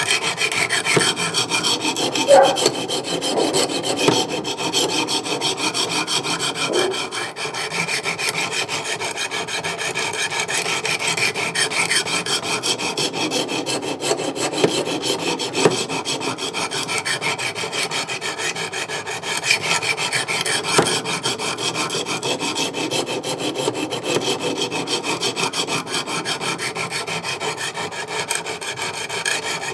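Coarse 200-grit Wicked Edge sharpening stones scraping repeatedly along a steel knife edge, a continuous rasping stroke after stroke. This is the coarse stage of sharpening, raising a burr on the blade.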